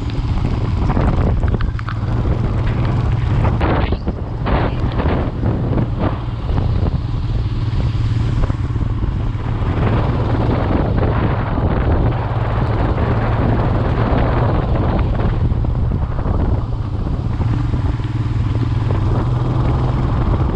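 Motorcycle engine running steadily while riding, under heavy wind buffeting on the microphone that comes and goes in gusts.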